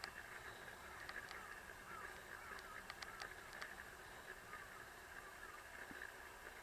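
Faint bird calls: a run of short, repeated notes, several a second, with a few sharp ticks in between over a steady background hiss.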